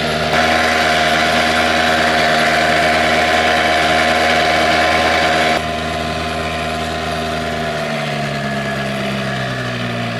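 Small outboard motor on a dinghy running steadily under way. It gets quieter abruptly about five and a half seconds in, and its pitch drops over the last couple of seconds as it slows.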